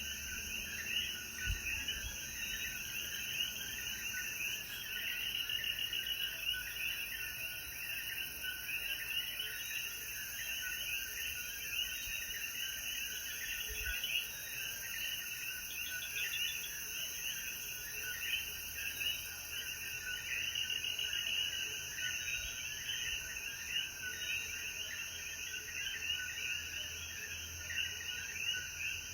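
Dense chorus of Puerto Rican coquí frogs: many overlapping short rising calls over a steady high hiss.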